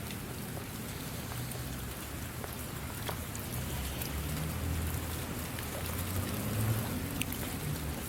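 Steady rain with scattered individual drops ticking over a continuous hiss, and a low rumble underneath that swells in the second half.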